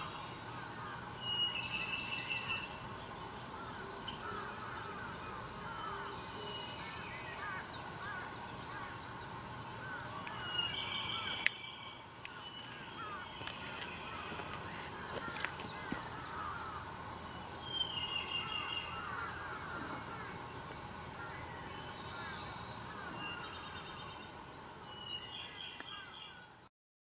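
Wild birds calling: a dense, continuous chorus of quick chirps, with louder harsh cawing calls of about a second each breaking out four times above it. The sound cuts off abruptly just before the end.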